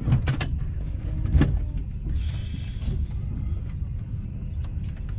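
Inside a TGV Duplex carriage as the train rolls slowly into the station: a steady low rumble with sharp knocks, the loudest about a second and a half in. About two seconds in comes a short hiss lasting under a second.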